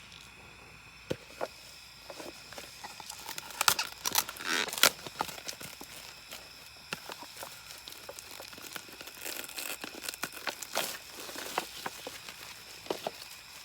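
Crinkling and rustling of material being handled, with scattered clicks and knocks, busiest about four to five seconds in.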